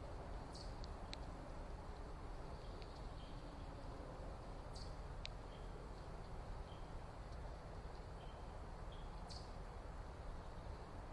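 Backyard birds giving short, scattered chirps and sharp high chips, a few every couple of seconds, over a steady low background rumble.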